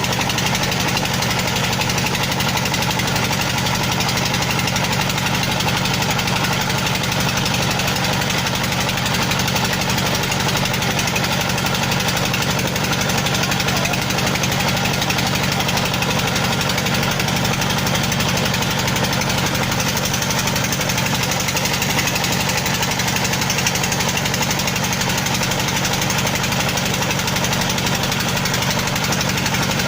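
A heavy engine running steadily with a knocking, jackhammer-like beat.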